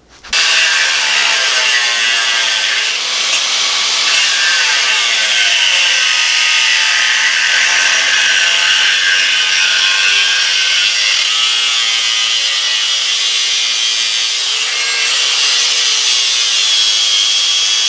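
Handheld power tool cutting a slot for a drive chain, a loud, steady cutting noise whose pitch drifts slowly as the blade or disc meets the load. It starts abruptly just after the start and runs without a break.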